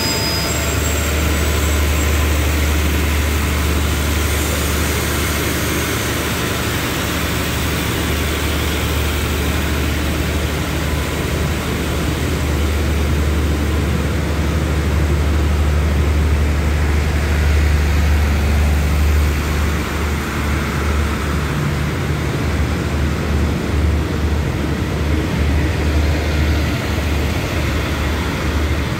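Diesel-hauled passenger train pulling slowly out of the station. A steady low engine hum runs under the rumble of the coaches rolling along the track.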